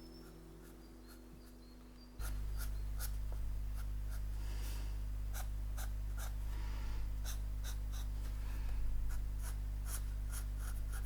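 Pen nib scratching across paper in short, irregular strokes as a drawing is inked, starting about two seconds in over a steady low hum.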